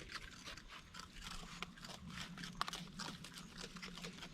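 Raccoons crunching and chewing Fruit Loops cereal, a quick irregular crackle of small bites, over a faint steady low hum.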